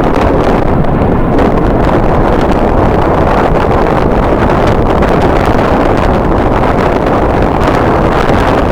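Strong wind buffeting the camera's microphone: a loud, steady noise that flutters constantly, heaviest in the low end.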